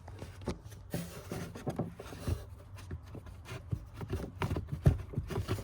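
Cabin air filter being worked out of its plastic housing behind a car's glove box: scattered plastic clicks, taps and rubbing, with a sharper knock near the end.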